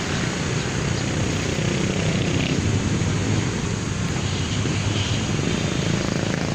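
Wind rushing over the microphone while riding a bicycle: a steady, loud rushing noise with a low rumble underneath.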